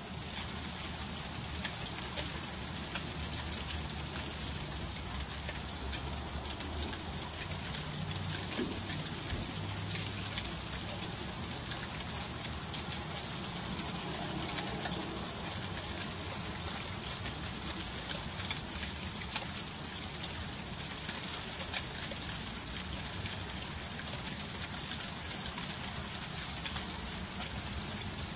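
Freezing rain falling steadily during an ice storm, a dense hiss filled with many small ticks of drops striking hard icy surfaces.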